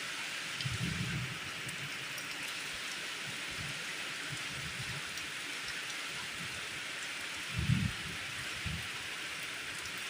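Steady rain falling, heard as an even hiss. A few short low thumps break through it, the loudest about three-quarters of the way in.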